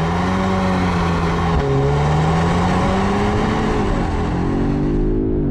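Audi S3 Sportback's 2.0 TFSI turbocharged four-cylinder engine under hard acceleration. The engine note climbs and drops sharply at upshifts of the S tronic dual-clutch gearbox, about one and a half seconds in and again about four seconds in.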